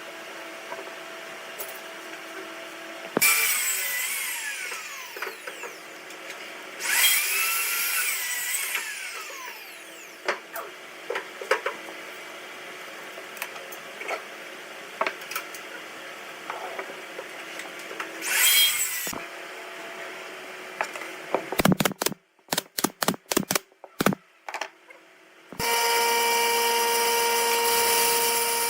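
Power tools working wood. A motor runs steadily, and three times a tool bites into the wood with a loud rasping burst that rises and falls in pitch. Near the end there is a quick run of sharp knocks, then a louder machine starts and keeps running.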